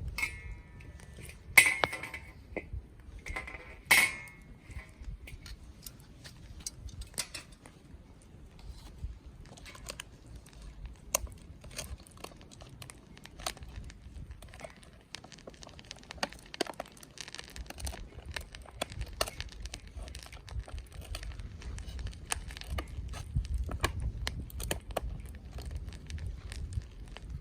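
Campfire wood crackling with scattered small pops, burning in a Coleman Fire Disk. Two louder metallic clinks with a short ring come about a second and a half and four seconds in.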